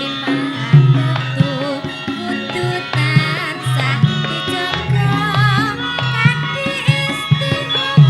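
Javanese gamelan music in a langgam song, with sharp kendang hand-drum strokes and a wavering, vibrato-laden melody line over a steady low bass pattern.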